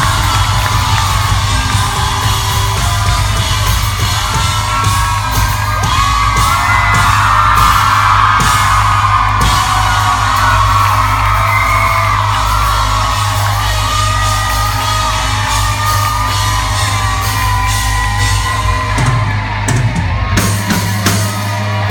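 Live pop-rock band playing loudly over a venue's sound system, with steady heavy bass and voices singing, yelling and whooping over the music.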